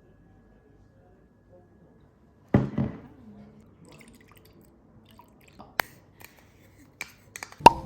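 Sauce for a stir-fry being mixed: a short splash of liquid about two and a half seconds in, followed by soft handling noises and several sharp clinks of a utensil against the container.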